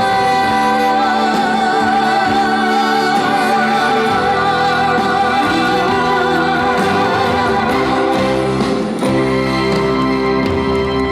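A woman singing live over band accompaniment through a PA, holding one long note with a wide vibrato that ends about eight seconds in, while the accompaniment plays on.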